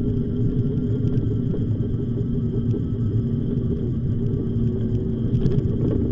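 Steady low rumble of an e-bike on the move, with a constant hum running underneath.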